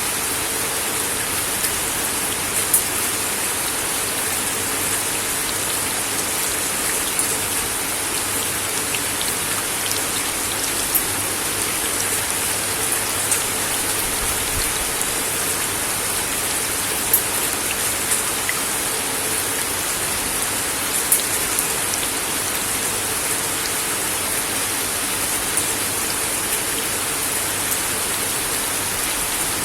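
Steady rain falling on a wooden deck, an even hiss with scattered sharper drops landing close by.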